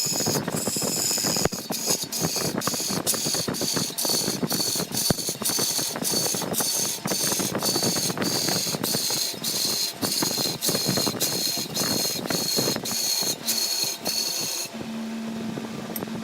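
A woodworking machine clattering, with a regular click about two to three times a second over a scraping noise and a high whine. About a second and a half before the end it changes to a steady low hum.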